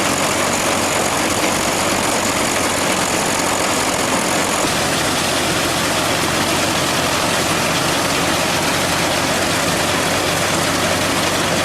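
Oliver Red River threshing machine running, a steady dense mechanical din over an engine's low hum.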